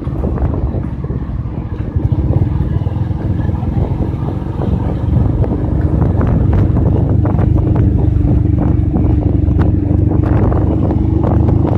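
Motorcycle engine running steadily under way, mixed with wind rushing over the microphone; the engine tone grows louder about five seconds in.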